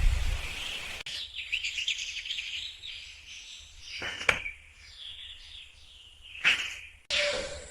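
Birds chirping in quick, high twittering notes, with two short sharp sounds partway through; the sound cuts off and restarts abruptly near the end.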